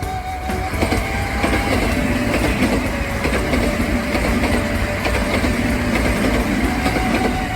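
Kintetsu electric train passing, wheels running on the rails, growing louder about a second in and easing off near the end.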